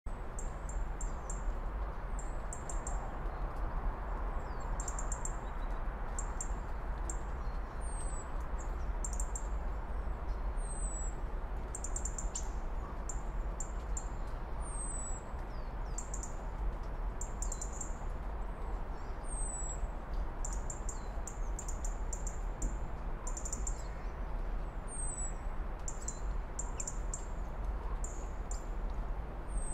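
Small birds chirping repeatedly: short high-pitched chirps and quick downward-sweeping notes every second or so, over a steady background hiss.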